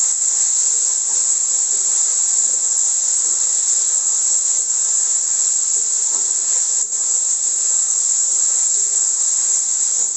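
Onions and mushroom pieces sizzling in hot oil in a wok: a steady, high-pitched frying hiss.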